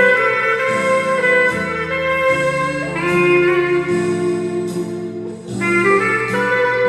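Weril 13-key clarinet playing a slow hymn melody in long held notes over a sustained lower accompaniment, with a brief pause about five and a half seconds in before the next phrase.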